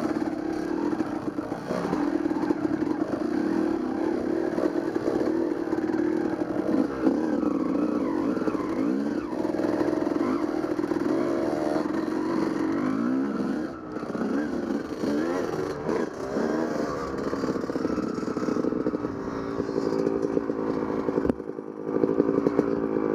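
Dirt bike engine running under way, its pitch rising and falling again and again as the throttle is worked, with brief drops in revs a little past the middle and near the end.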